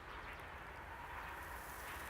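Faint steady outdoor background noise with a low rumble and a few light ticks.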